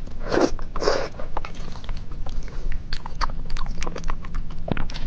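Close-miked eating of Buldak fire noodles: two louder mouthfuls about half a second and a second in, then quick, wet chewing clicks.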